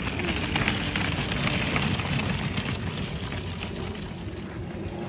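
Footsteps and rustling while walking on an outdoor trail: an irregular patter of small knocks over a steady noisy wash.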